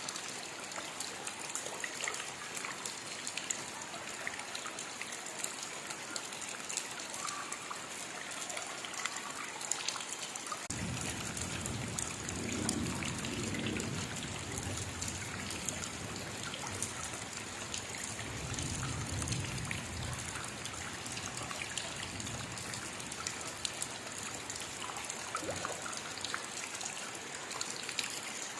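Steady rain with dripping and trickling drops. About ten seconds in, a low rumble sets in, then dies away over the next fifteen seconds.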